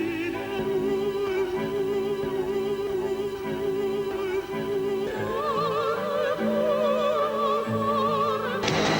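Operatic singing with orchestra: a sung note held with wide vibrato, rising to a higher held note about five seconds in. Just before the end it cuts off abruptly into a loud hiss-like noise.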